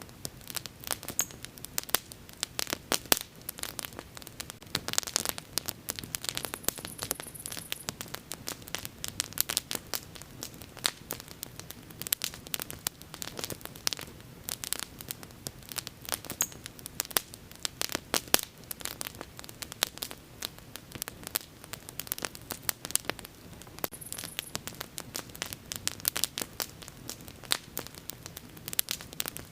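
Wood fire burning with dense, irregular crackling and popping over a low steady rush of flame.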